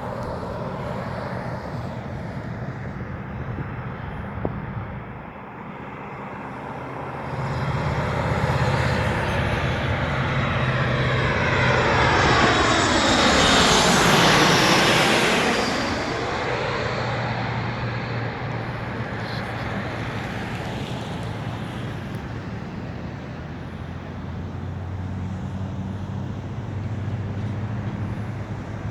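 Boeing 737 MAX 8 airliner's CFM LEAP-1B turbofan engines passing by on landing: the jet noise builds to its loudest about halfway through, with a whine that falls steeply in pitch as the plane goes past, then settles back to a steadier, lower rumble.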